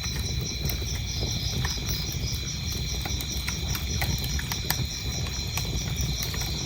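Wood fire crackling, with scattered sharp pops over a low steady rumble of burning. Crickets chirp behind it in an even, repeating rhythm.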